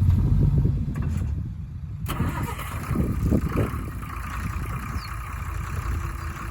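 Heavy diesel engine running, loudest in the first second. The sound changes abruptly about two seconds in, and a quieter engine rumble continues after that.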